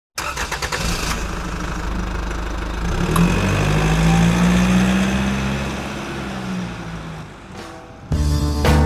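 Motorcycle engine running and revving, rising in pitch and then easing off before fading out. Music begins near the end.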